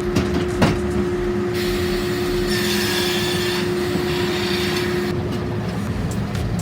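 Heavy machinery running steadily with a constant whine. A hiss rises about two and a half seconds in and stops about a second later.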